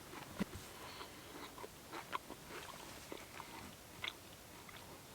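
A person faintly chewing a freshly baked chocolate chip cookie that is crispy on the outside, with scattered small crunches.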